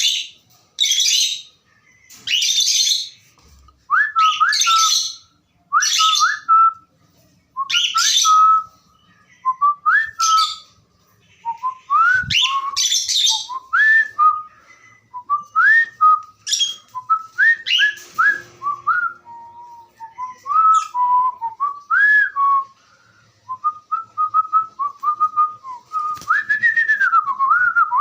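Cockatiel calling: harsh, raspy chirps through the first half, alongside and then giving way to a long run of short whistled notes that rise and fall, repeated over and over.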